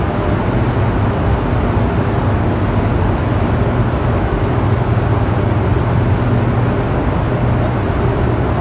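Hoover Dam's hydroelectric turbine-generator units running in the powerhouse: a loud, steady drone, with a low hum and a few fainter higher tones over an even rushing noise.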